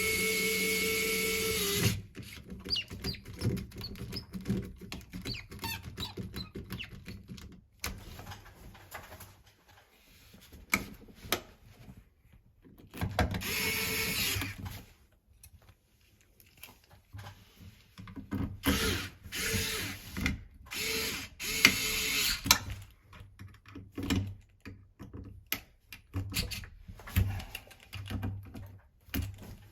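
Power drill-driver motor running in short bursts as tap parts are screwed and unscrewed: a two-second run at the start, another just before halfway, and several brief spurts a little past the middle, with clicks and clatter of tools and parts between.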